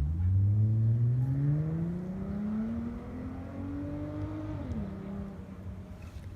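A motor vehicle's engine accelerating: its note climbs steadily for about four seconds, drops sharply as it changes gear, then holds steady.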